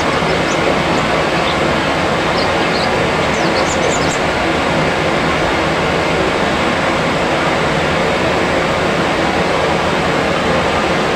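Loud, steady rushing noise, even and unbroken, like a continuous white-noise or water-roar track. A few faint, short high chirps from small birds sound over it in the first four seconds.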